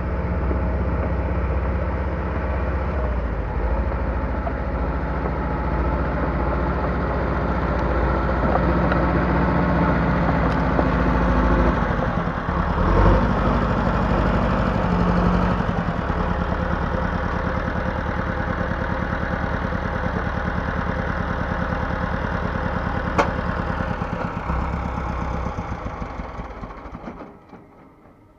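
Heavy machine's engine idling steadily, with a short change in its note about halfway through; it dies away near the end.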